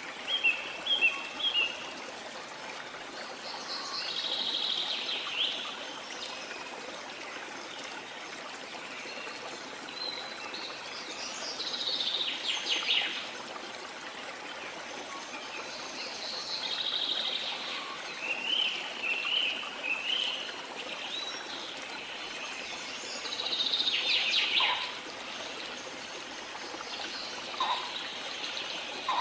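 Steady rush of running water with birds singing over it. A phrase comes every few seconds, some quick runs of chirps and some falling phrases.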